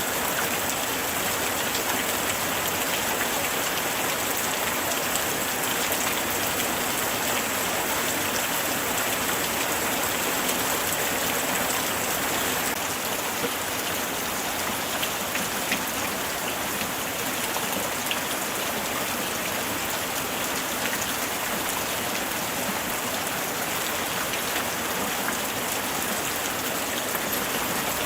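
Steady light rain falling, a dense even hiss of many small drop patters.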